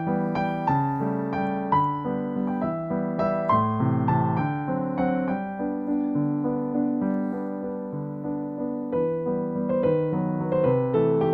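Background piano music: a gentle, steady run of notes and chords.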